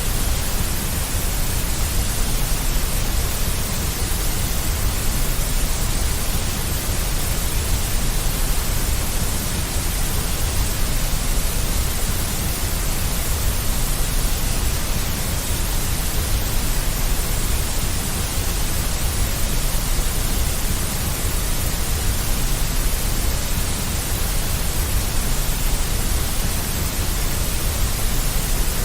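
Steady, electronically generated deep white noise: an even hiss with a heavy low rumble beneath it.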